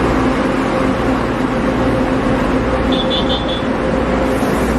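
Steady running noise of a moving train, an even rumble with a constant hum. Three short high beeps sound about three seconds in.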